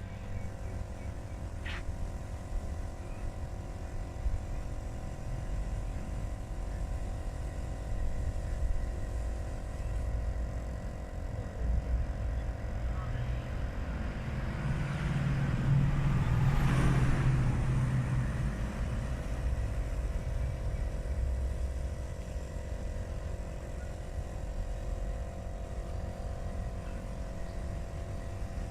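Steady low rumble of traffic with a constant hum. About halfway through, a motor vehicle passes, swelling and then fading away.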